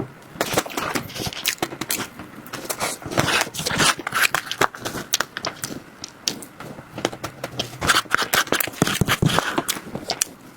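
Close-miked eating sounds of desserts being chewed: irregular mouth clicks and crackles, some louder about half a second in, around three to four seconds in, and again near eight to nine seconds.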